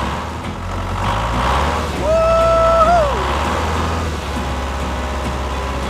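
A small motor running steadily as a low hum. About two seconds in, a held tone sounds for about a second, then wobbles and falls away in pitch.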